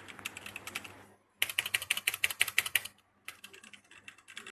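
Typing on a DAREU EK87 V2 mechanical keyboard: rapid key clicks in three runs, the middle run louder, with short breaks between them, ending abruptly.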